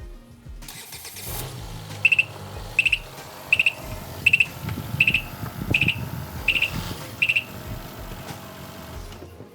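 A car engine running while a high-pitched beeper sounds eight times at an even pace, about one beep every three-quarters of a second, like a reversing or parking warning.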